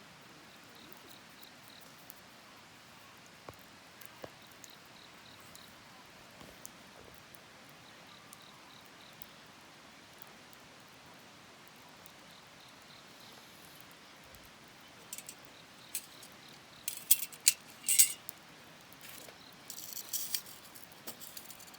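Wood fire crackling: a low hiss with scattered faint ticks, then sharp pops and snaps coming in clusters over the last several seconds, the loudest about three-quarters of the way through.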